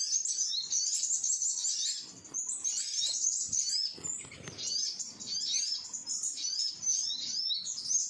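Small birds chirping: a dense run of rapid, high-pitched chirps and twitters that thins out briefly twice.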